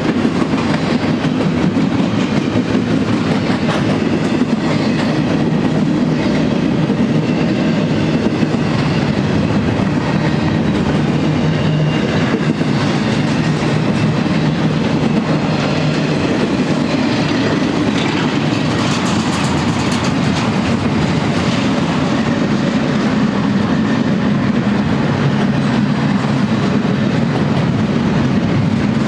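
A freight train of empty double-stack well cars rolling past at close range: a steady rumble and clatter of steel wheels on the rails.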